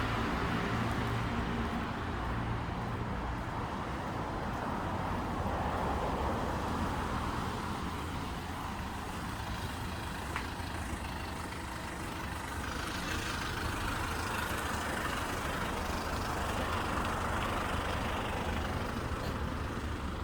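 Steady city road traffic: cars and heavier vehicles such as buses and trucks passing, with an engine hum that fades over the first couple of seconds.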